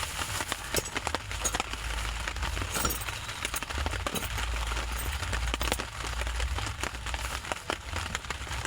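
Irregular clicks, knocks and clinks of camp gear being handled and put away, over a low rumble.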